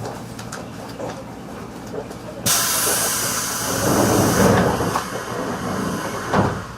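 Train running noise inside a JR 211-series commuter train, broken about two and a half seconds in by a sudden loud hissing rush that lasts about four seconds, with a rumble under it and a thump just before it cuts off.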